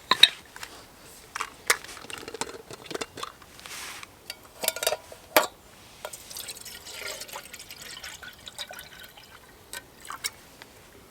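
Water poured into a camping kettle, among scattered clinks and knocks of metal being handled.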